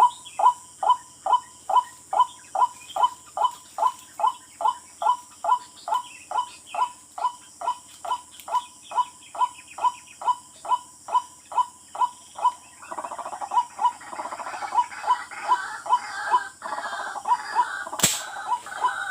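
Tikling (barred rail) calling: a long, evenly paced series of short, sharp notes, about three a second. From about two-thirds of the way in, a rustling noise joins the calls, and near the end there is one sharp click.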